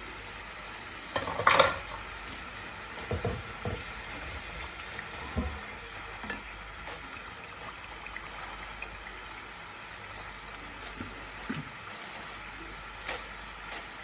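Potatoes deep-frying in hot oil with a steady sizzle. A utensil turning the crisping pieces gives a few knocks and scrapes, the loudest about a second and a half in.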